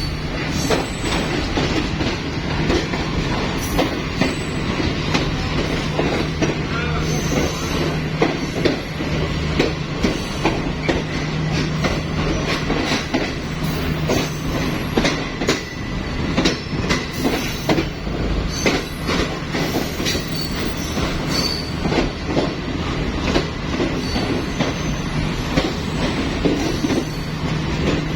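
Green Line Express passenger train rolling along the track, its wheels clacking over rail joints in a quick, irregular run of clicks over a continuous rumble and a steady low hum.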